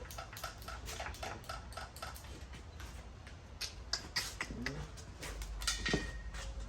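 Ratchet wrench clicking in short, even strokes, about four clicks a second, then a few sharp metal clinks of tools and parts while engine-bay parts are removed.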